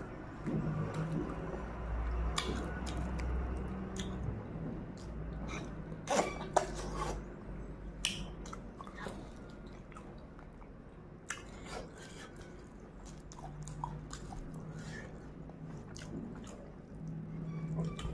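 Close-up chewing and biting of a curried mutton leg piece: wet mouth smacks and many short, sharp clicks scattered through the chewing.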